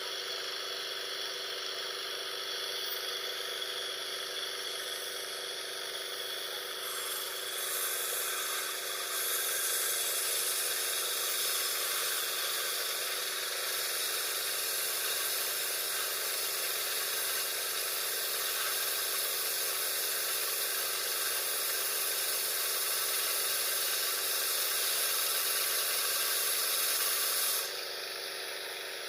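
Mini sawmill running steadily. From about seven seconds in it rips through a board for some twenty seconds, a louder hissing sound over the motor, and near the end the cut finishes and it drops back to running free.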